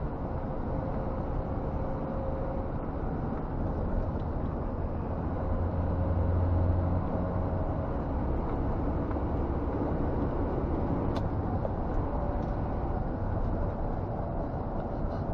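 Scania G460 truck's 13-litre straight-six diesel running on the move, heard inside the cab as a steady low drone with road noise; the low drone swells briefly about six to seven seconds in.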